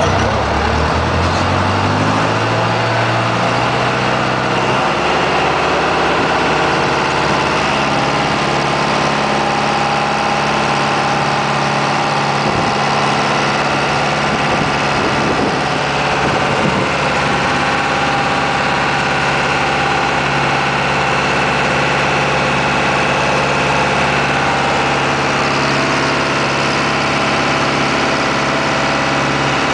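Small river ferry's engine running. Its pitch rises over the first few seconds, then it runs steadily.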